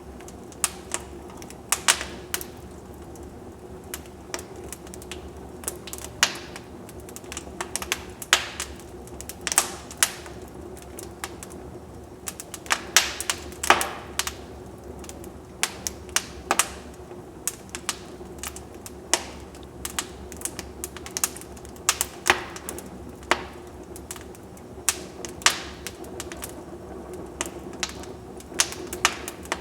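Wood fire burning in a fireplace, crackling with irregular sharp pops and snaps, some in quick clusters, over a faint steady hiss.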